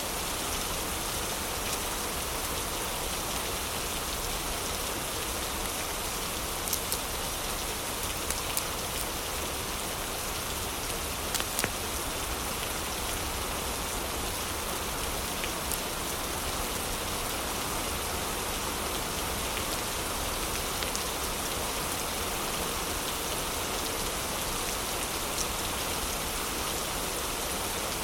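Heavy rain falling steadily, an even hiss of water with a few sharp ticks scattered through it.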